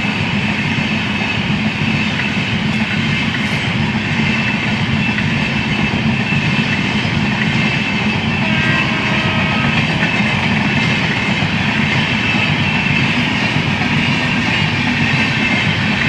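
Passenger express train hauled by an electric locomotive running on the rails: a loud, steady rumble of wheels and rail noise with no letup.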